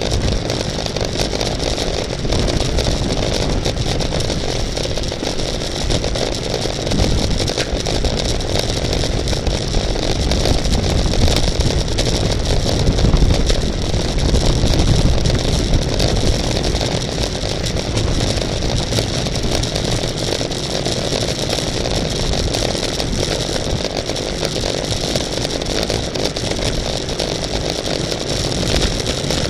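Steady rush of wind and road noise on a riding bicycle camera's microphone, with a deep rumble that swells for a few seconds about midway through.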